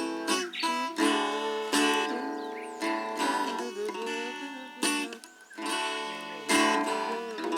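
Acoustic guitar being strummed, each chord ringing on before the next stroke.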